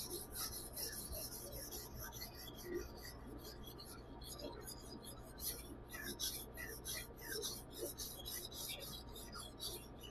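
Nakiri knife blade stroked back and forth on a 600-grit whetstone: a quick, even run of short scraping strokes, about four a second.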